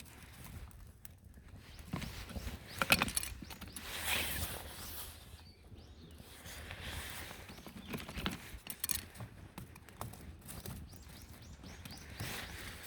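Campfire crackling, with irregular sharp pops and snaps over a soft hiss; the loudest snap comes about three seconds in, and another cluster of pops comes around eight to nine seconds in.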